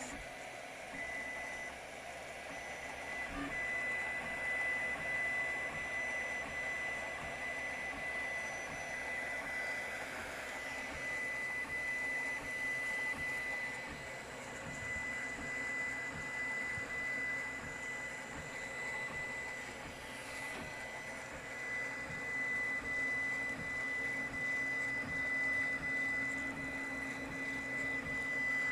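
3D printer printing, with its motors and fan running and a steady high-pitched whine throughout; the extruder is a lightweight direct-drive unit driven by an RC servo.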